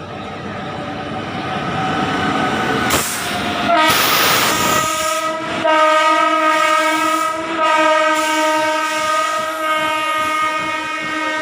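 Express train behind an Indian Railways electric locomotive approaching at speed, its running noise rising, then the locomotive sounding its air horn in long blasts from about four seconds in, broken briefly twice.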